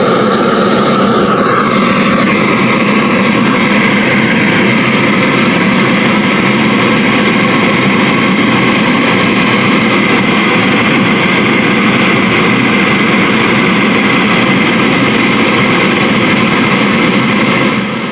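Loud, steady FM radio hiss (static) from a speaker driven by a repaired 4440-IC stereo amplifier's first channel, a sign that the channel now passes sound.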